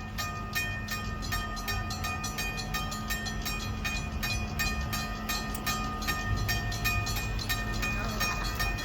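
Railroad grade-crossing warning bell ringing in a fast, even rhythm, several strikes a second, signalling the crossing has activated for an approaching train. A low rumble runs underneath it.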